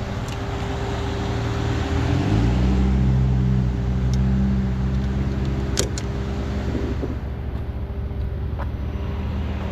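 Rollback tow truck's diesel engine idling, then revving up about two seconds in, holding the higher speed for a few seconds and settling back toward idle. There is a single sharp click near the middle.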